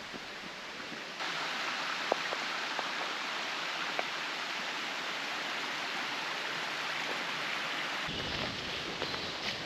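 A small mountain stream rushing over rocks. The steady hiss of water jumps louder about a second in and falls back near the end, with a couple of faint clicks.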